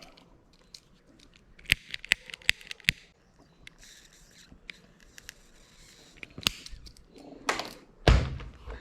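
Scattered light clicks and knocks, a faint rustle in the middle, and heavier thuds near the end.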